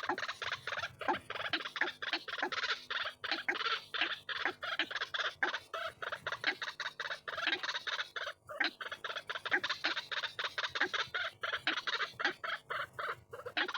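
White-breasted waterhen (ruak-ruak) calling: a dense, continuous run of short repeated notes, several a second, with a brief break about eight and a half seconds in.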